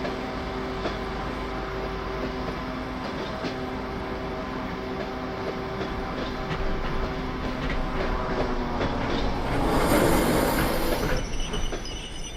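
Passenger train hauled by a 2TE116 diesel locomotive running along the track: a steady diesel drone with wheels clicking over rail joints. About ten seconds in, a louder rushing hiss swells and dies away.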